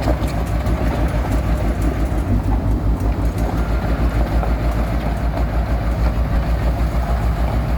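Heavy diesel engine of road-works machinery running steadily, a low rumble with a quick, even pulse.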